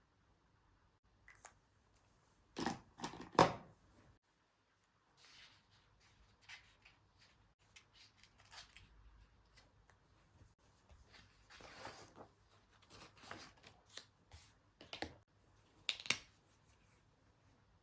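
Paper and sticker sheets handled on a desk during planner journaling: scattered rustling and soft clicks, with a few sharper knocks about three seconds in and two sharp taps near the end.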